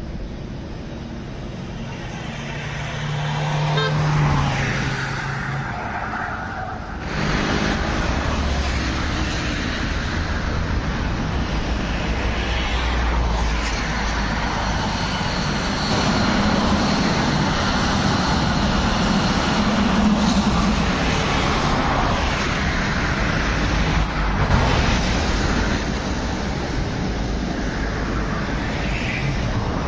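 Trains passing along the tracks of a city rail junction, a long, steady rumbling passage. A short horn toot sounds about three to four seconds in, and the sound changes abruptly at about seven seconds.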